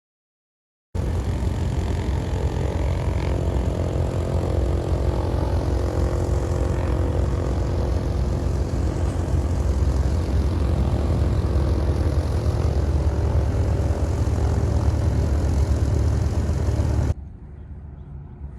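Light propeller airplane's engine running, a loud steady drone with a heavy low rumble. It starts suddenly about a second in and cuts off suddenly near the end.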